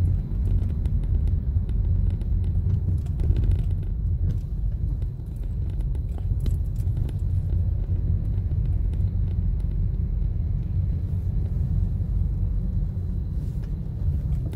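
Steady low road and engine rumble of a moving Toyota Corolla, heard inside the cabin, with faint scattered ticks.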